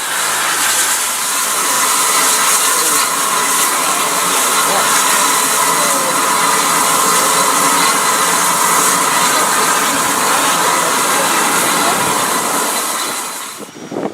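Steam locomotive blowing off steam: a loud, steady hiss that cuts off abruptly near the end.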